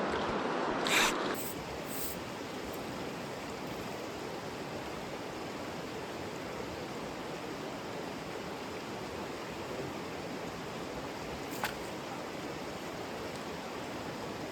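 Steady rush of a small stream's flowing water, with a brief louder noise about a second in and a single click later on.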